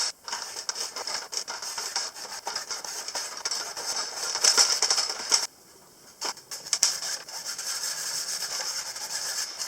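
Hand scraping and rubbing on metal parts of the tractor seat mechanism, in quick dense strokes, with a short pause a little past the middle.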